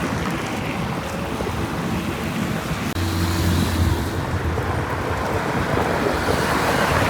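Wind rushing over the microphone of a moving bicycle, with traffic noise and a motor vehicle's low hum passing about three seconds in.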